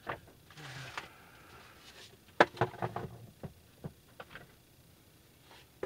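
Scattered knocks and clicks of objects being handled and set down, the loudest a quick cluster of sharp knocks about two and a half seconds in.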